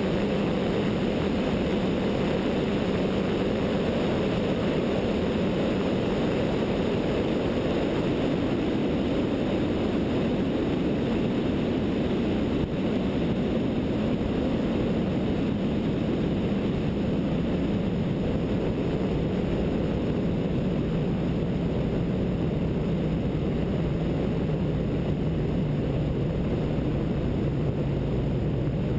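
Zenith light sport aircraft's 100-hp Continental O-200 engine and propeller droning steadily in flight, heard with wind rush at a wingtip-mounted camera. The engine note eases slightly lower near the end.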